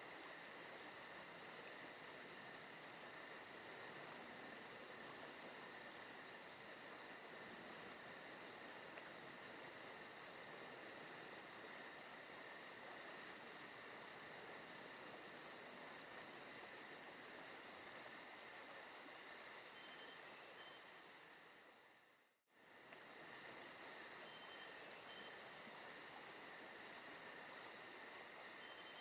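Forest ambience of crickets and other insects chirping in a steady, fast trill. The chorus fades out to almost nothing about three-quarters of the way through and comes straight back, like the seam of a looped recording.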